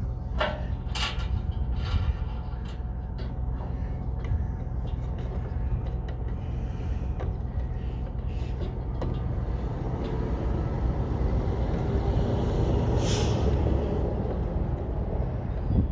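A vehicle engine idling with a steady low hum, with a few sharp clicks early on and a short hiss about thirteen seconds in.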